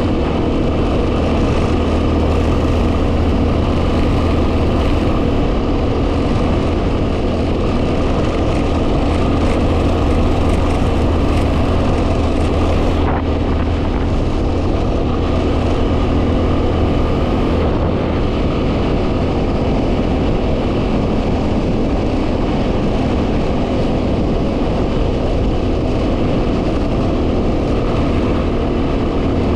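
2010 Yamaha WR250R's single-cylinder four-stroke engine running steadily while under way, with heavy wind noise on the microphone.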